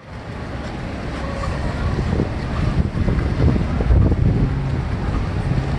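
Boat engines rumbling on the canal, with wind buffeting the microphone; a steady low engine hum comes in about four seconds in.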